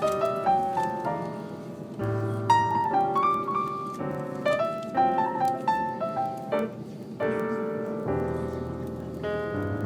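Piano music: a quick run of melody notes over held chords, with low bass notes coming in about two seconds in and again near the end.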